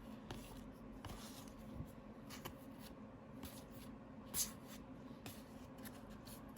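Trading cards being handled: faint rustles and sliding scrapes of cards against each other, with a slightly louder brush about four seconds in.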